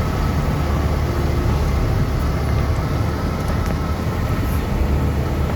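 Motor vehicle on the move: a steady, low engine and road rumble, with a few faint knocks.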